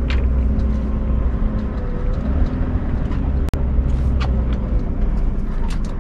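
Scania R580 truck's V8 diesel engine running steadily at low revs during slow manoeuvring, with a faint wavering whine above the rumble and scattered light clicks. The sound cuts out for an instant about halfway through.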